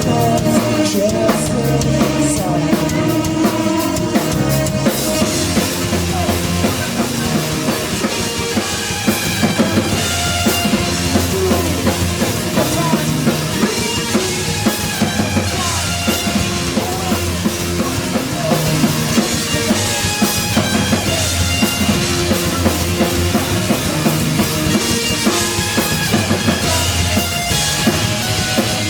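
Live band playing loud, with no vocals: a drum kit with bass drum and snare drives the beat under sustained bass and keyboard lines.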